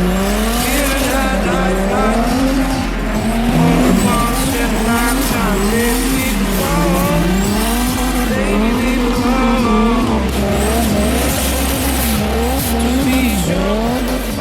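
Nissan 240SX with a swapped straight-six engine, revving up and down over and over, with tire squeal and skidding in between.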